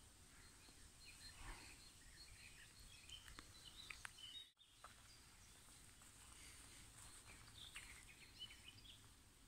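Faint birdsong: scattered short chirps and warbles from several birds over a low background hiss, with the sound cutting out for an instant about halfway through.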